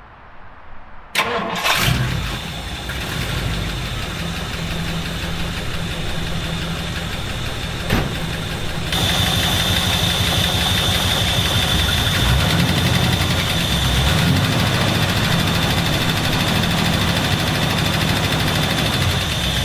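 A 1962 Ford Galaxie's V8 engine starting: it fires up suddenly about a second in and settles into a steady run. A high steady whine joins about halfway through.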